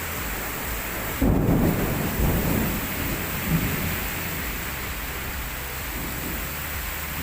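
Heavy rain falling steadily, with strong wind gusting in low rumbles, the loudest a sudden surge about a second in.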